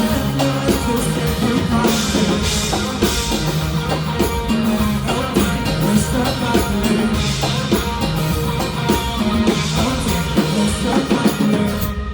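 Live band playing an instrumental passage on drum kit and guitar over sustained low bass notes, the full band stopping together right at the end as the song finishes.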